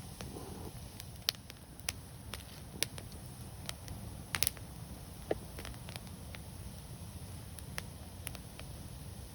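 Wood fire burning, with sharp irregular crackles and pops from the burning wood over a steady low rumble; the loudest pops come in a quick pair near the middle.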